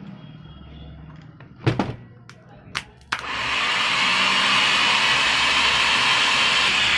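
Sonalika 750 tractor starter motor, rebuilt with a new larger field coil and new carbon brushes, on test: a few sharp clicks, then about three seconds in it starts and runs with a loud, steady high-speed whir.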